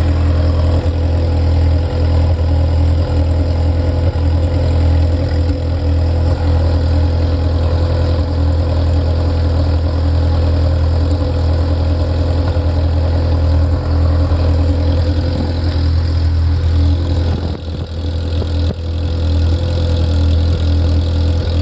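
Ferrari F355's V8 engine idling steadily, with a brief dip in level about three-quarters of the way through.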